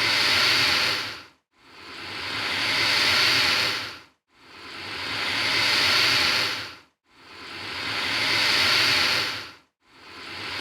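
Alligator hissing: a breathy hiss that swells and then cuts off sharply, repeated at an even pace about every two and a half seconds.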